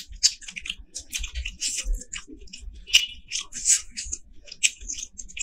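Close-miked wet chewing and lip-smacking, a dense run of short clicky mouth sounds from a mouthful of curry. Near the end, fingers squish through rice and curry on the plate.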